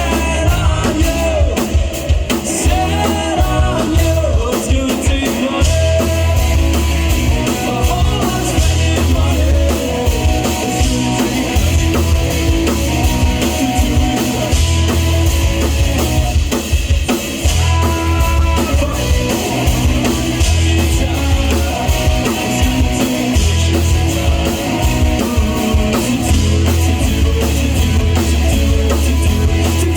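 Live rock band playing a song: a full band with drum kit and a singer, loud and continuous.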